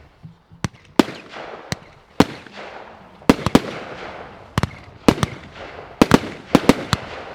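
A 25 mm F2 fireworks battery firing a quick, irregular series of about fourteen sharp bangs, each with an echo that dies away. The shots bunch up more densely in the second half.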